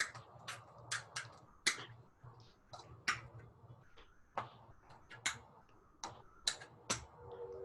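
Tap shoes' metal taps striking a hard floor in an uneven run of single sharp clicks as a dancer walks through a tap sequence.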